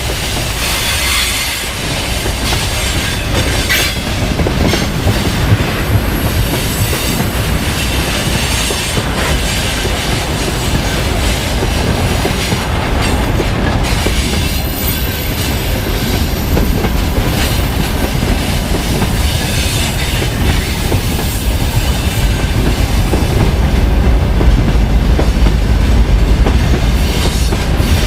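Loaded freight train rolling past: a steady rumble, with the wheels clattering over the rail joints and some wheel squeal. The low rumble grows louder near the end.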